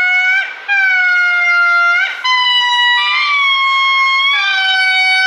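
Lemur calling: a series of long, steady, high notes, each about a second long, stepping up and down in pitch with short breaks between them.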